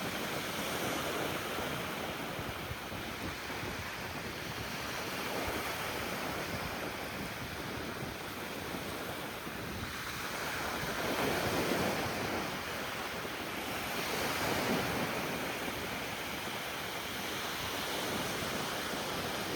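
Ocean surf washing onto a beach: a steady rush of waves that swells louder about halfway through and again a few seconds later as waves break.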